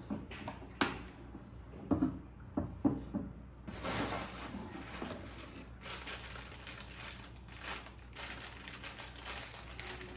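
Handling of mixer-grinder jars and lids during unboxing: several sharp plastic clicks and knocks in the first three seconds, then continuous rustling of packaging from about four seconds in.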